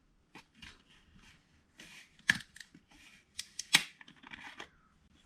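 Plastic motor oil bottle being handled and opened: scattered small clicks and scrapes of the cap, with two sharper clicks.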